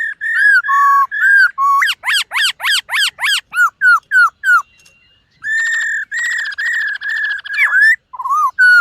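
Black-throated laughingthrush singing loud, clear whistles. A quick run of falling whistled notes, about four a second, stops briefly about five seconds in, then comes back as a long, wavering whistle with a rattling edge.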